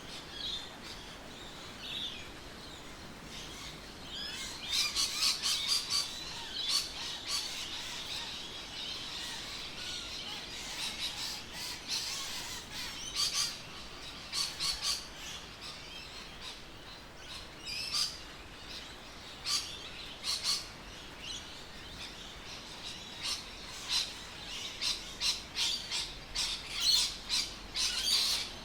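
Birds chirping and calling: many short, high calls, some in quick runs, over a faint steady background.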